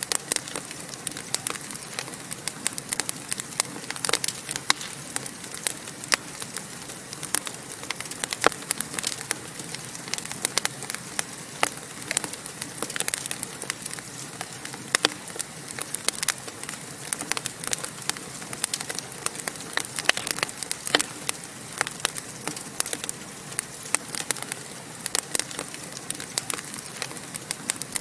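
Wood fire crackling in a fireplace: a steady hiss of flames with dense, irregular pops and snaps.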